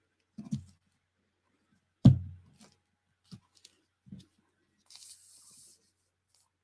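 Paper being folded and pressed down on a craft table: a few soft thumps, the loudest about two seconds in, and a short papery rustle near the end.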